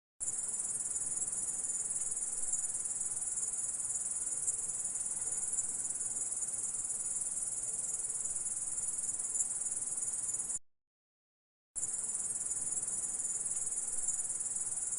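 Insect stridulation: a continuous, high-pitched trill. It breaks off for about a second roughly two-thirds of the way through, then starts again.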